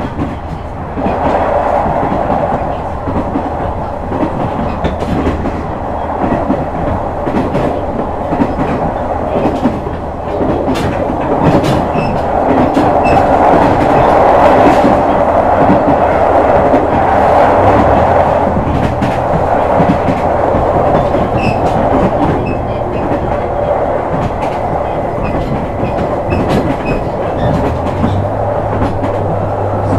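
JR West KiHa 126 series diesel railcar running: a steady diesel engine drone over the rumble of wheels on track, with clicks of the wheels crossing rail joints. The engine note steps up about eighteen seconds in and again near the end.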